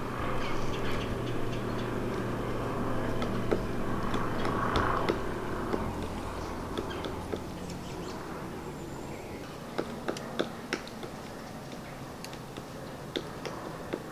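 A low, steady engine-like hum that fades away over the first half, with scattered sharp taps and clicks throughout and a few louder ones near the end.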